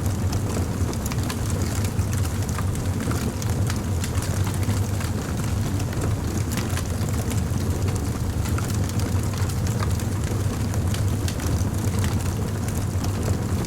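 A fire crackling: a steady low rumble under frequent small sharp pops and snaps.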